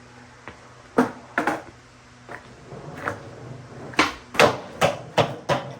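A series of about ten sharp knocks and clacks at uneven spacing, the loudest cluster about four to five seconds in, like hard objects being handled and set down.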